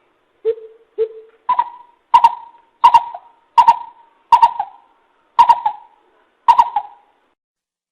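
Greater coucal calling: a series of about nine short hollow hoots, the first two lower and the rest higher, the gaps between them widening toward the end.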